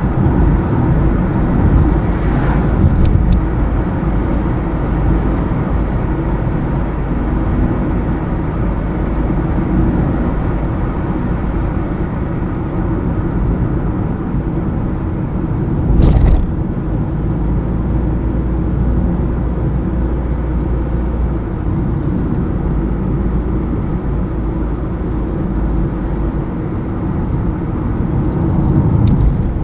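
Steady road noise of a car driving on a highway, engine and tyres, with a brief thump about sixteen seconds in.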